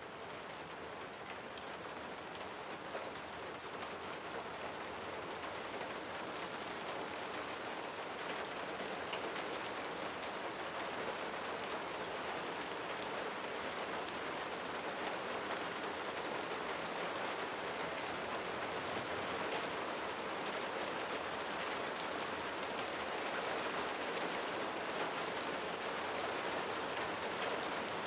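Steady heavy rain, a dense patter of drops falling on leaves, slowly growing a little louder.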